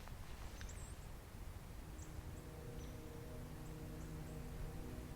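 Faint forest ambience with a low steady rumble and a few short, high bird chirps. About two seconds in, soft background music enters as sustained held notes.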